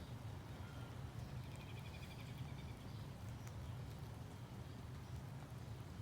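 Outdoor morning ambience: a steady low rumble underneath, with a songbird giving one short, rapid trill about one and a half seconds in and a few faint chirps around it.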